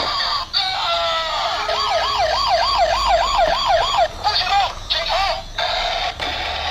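Toy police car's electronic sound module playing a warbling siren that rises and falls about three times a second, over its tinny built-in music, with a few short steady tones just before the siren starts.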